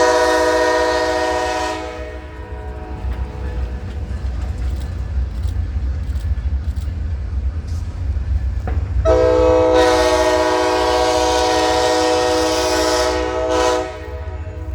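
Locomotive air horn sounding twice: a blast of about two seconds, then after a pause a long blast of about five seconds. A steady low rumble of the train runs underneath.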